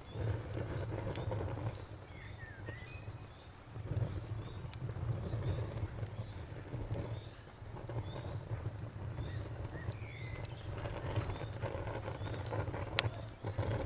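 Campfire crackling, with scattered sharp pops over a low rumble, and a cricket chirping steadily in an even, rapid pulse. A few brief higher calls rise and fall between the chirps.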